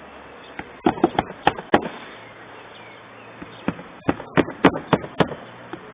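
Irregular hammer blows on wood. A few strikes come about a second in, then a quick run of strikes near the end.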